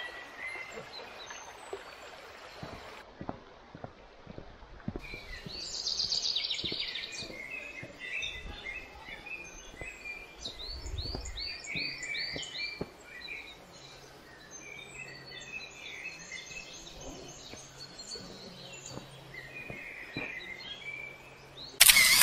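Several birds chirping and calling, with quick runs of repeated high notes, over a steady outdoor hiss. A short loud burst of noise cuts in at the very end.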